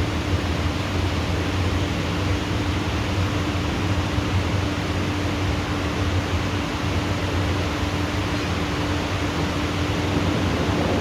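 Steady downpour of heavy tropical rain, an even hiss with a faint steady hum underneath.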